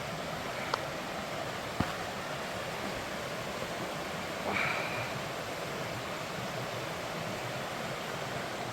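Steady rush of a stream and small waterfalls running over rocks. Two short clicks come in the first two seconds, and a brief high note about four and a half seconds in.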